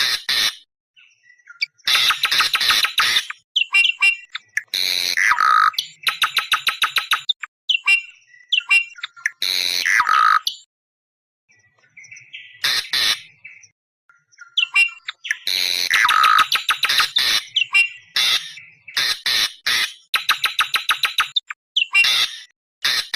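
Awar-awar bird calls played as a trapping lure: loud, harsh screeching calls about a second long, alternating with rapid stuttering runs of short notes, repeated several times with brief pauses between.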